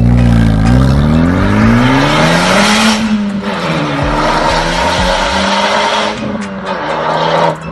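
Car engine revving, rising in pitch for about three seconds and then holding a steady speed, under a loud hiss that briefly drops away in the middle and cuts off sharply near the end.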